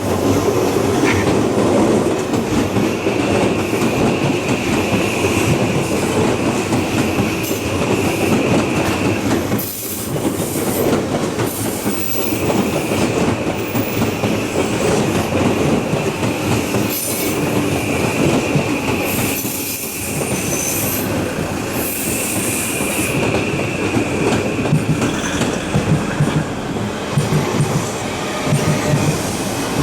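Odakyu electric commuter trains of the 1000 and 3000 series running through a level crossing one after another, wheels rolling and clattering over the track with some squeal, the level-crossing warning bell ringing over them.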